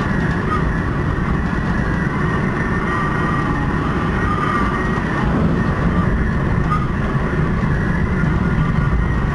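Düsseldorf SkyTrain suspended monorail car running along its track, heard from inside: a steady rumble with a faint wavering whine above it.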